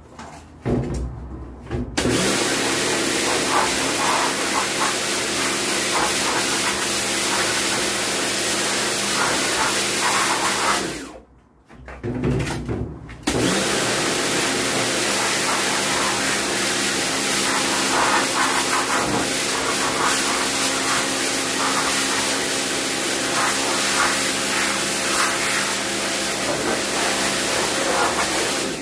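An electric cleaning machine running steadily with a hiss and hum. It starts about two seconds in, cuts off about nine seconds later, and starts again about two seconds after that.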